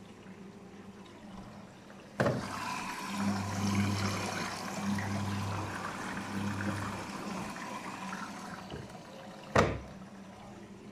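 Daewoo DWD-FT1013 washing machine on its rinse cycle: about two seconds in, water starts rushing into the machine with a sudden clack. Three short low hums come as the drum turns. Near the end a sharp knock sounds and the water stops.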